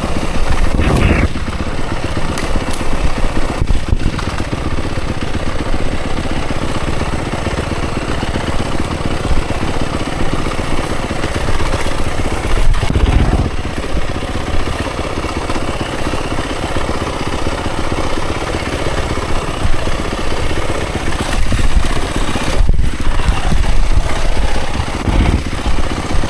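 Dirt bike engine running and revving while riding down a rough trail descent, the revs rising and falling with bursts of throttle several times.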